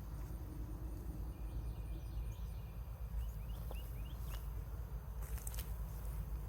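Outdoor garden ambience: a steady low rumble with a small bird calling, first a held high note and then a few quick rising chirps. A few light clicks and rustles come near the end.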